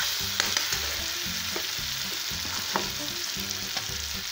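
Onions, capsicum and tomatoes sizzling in a metal wok while a metal spatula stirs and scrapes through them, with a few sharp clicks of metal on metal.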